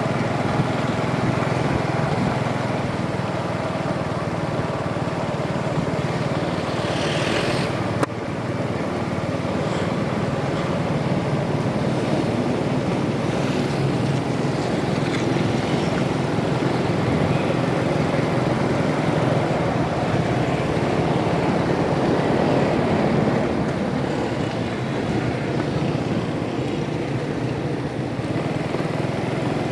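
Rusi DL125 motorcycle running steadily while being ridden, its engine mixed with wind and road noise. There is a sudden jolt in the sound about eight seconds in.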